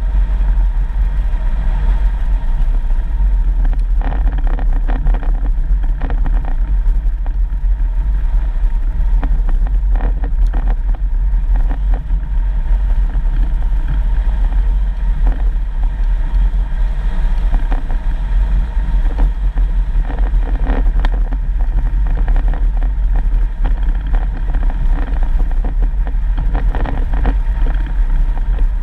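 Four-wheel-drive vehicle driving on a dirt road: a steady low rumble of engine and rough road, with frequent short knocks and rattles from the bumps.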